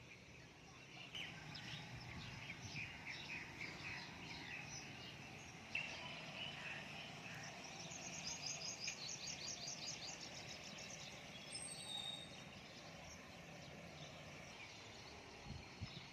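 Small birds chirping in the background, with a quick, even trill of high notes about eight seconds in.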